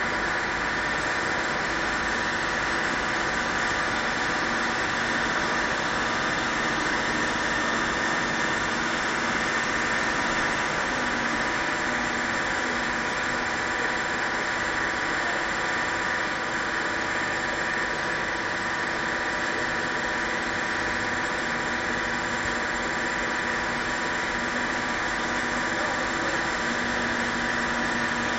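An engine idling steadily with an even mechanical drone that does not change.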